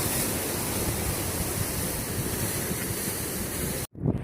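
Steady rush of wind and surf on a beach, with gusts buffeting the microphone. It cuts off abruptly near the end.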